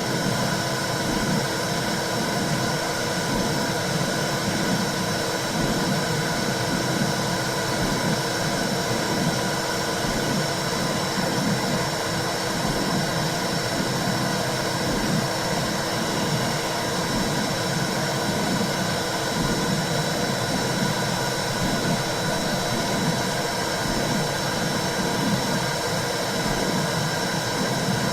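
Womb-sound white noise for calming babies: a steady, loud whooshing hiss with a low rumble underneath that surges unevenly.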